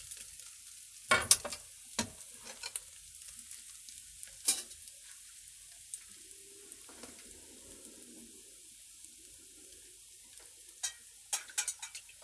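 Diced ham and carrots sizzling in a nonstick wok with a steady hiss. Utensils click sharply against the plate and pan, loudest about a second in, again twice more, and in a quick run near the end.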